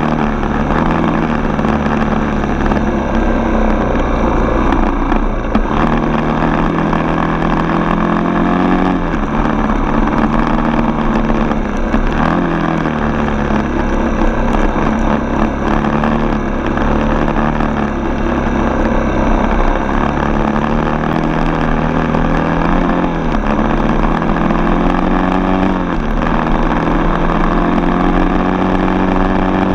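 Dirt bike's single-cylinder four-stroke engine running on the move. Its pitch dips and climbs again several times as the throttle and gears change.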